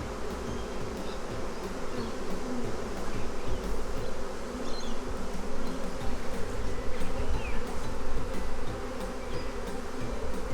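A swarm of honeybees buzzing in a dense, steady hum around a hive box as the shaken-down swarm gathers and starts going in.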